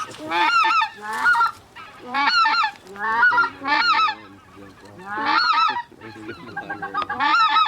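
Geese honking: about seven bursts of loud, rapid honks with short gaps between them, over a steady background chatter of more geese calling.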